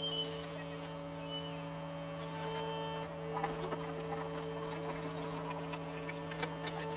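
John Deere 75 excavator running steadily as it digs: a buzzing drone that holds one pitch, with a few light clicks and scrapes partway through and near the end.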